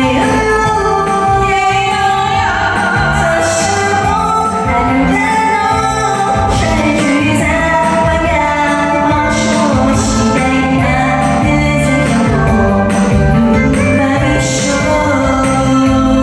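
A pop song: a singing voice over full instrumental backing, with bright cymbal-like splashes recurring every few seconds.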